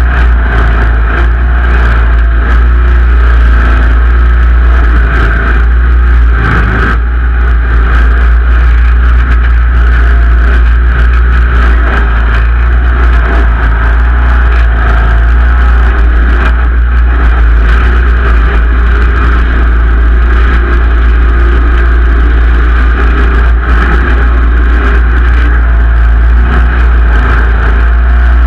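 Simplicity Legacy XL garden tractor engine running steadily and loud, with a heavy low rumble.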